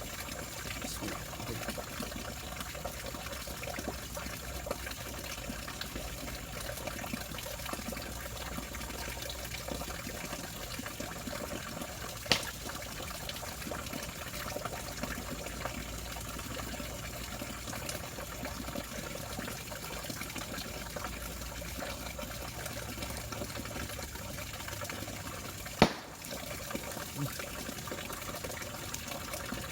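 Steady sound of running water throughout, with two sharp clicks, about twelve and twenty-six seconds in.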